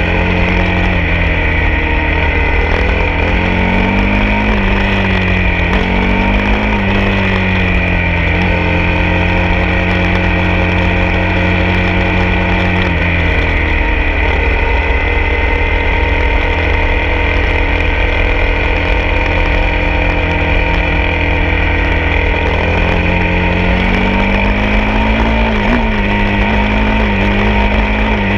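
Honda CRF250's single-cylinder four-stroke engine riding along, its note rising and falling with the throttle, then holding a steady cruise before dropping lower and picking up again near the end.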